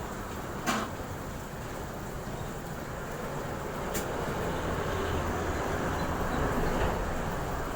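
Steady vehicle engine rumble with road noise, a short knock about a second in and a sharp click around four seconds in.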